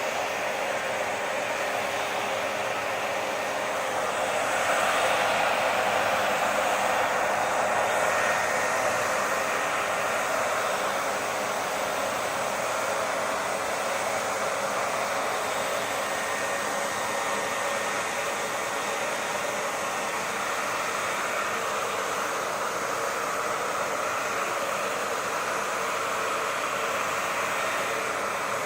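Hair dryer blowing continuously, a steady rushing whoosh of air with a faint whine from its motor, swelling slightly a few seconds in.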